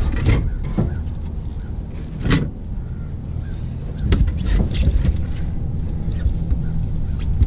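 Boat's outboard motor running steadily at low revs, with several short bursts of noise over it, the sharpest about two seconds in and a cluster around four to five seconds in.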